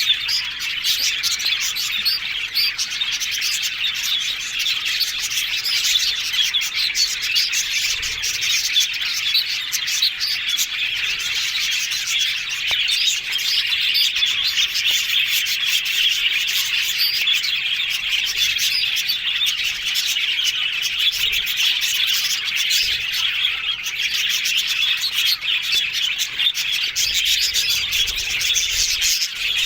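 Budgerigars chattering and warbling, a continuous stream of rapid high chirps.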